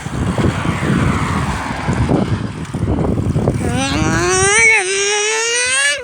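Wind buffeting the microphone of a camera carried on a moving bicycle, then a person's voice in one long, rising, wavering call for the last two seconds or so.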